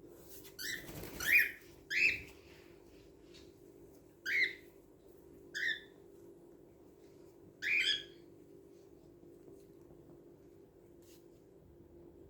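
Cockatiel giving short whistled chirps: a quick run of calls in the first two seconds, then single calls a second or two apart, stopping about eight seconds in. A steady low hum runs underneath.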